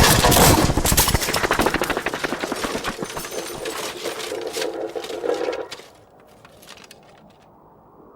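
A loud crash followed by a dense rattle of rapid sharp cracks that thins out and dies away about six seconds in, leaving only a faint hiss.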